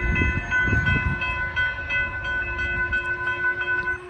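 Railroad grade-crossing bell ringing in quick, even strikes, about three a second, as the crossing gates rise. A low train rumble sits under it at first, and the bell stops near the end.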